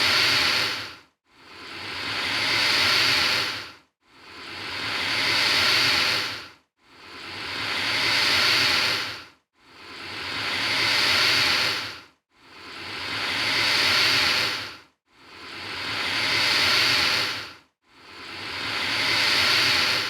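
Alligator hissing in a regular series of long, breathy hisses, each about two and a half seconds long, swelling and then cutting off, with short silent gaps between them. Seven full hisses come in an even, repeating rhythm.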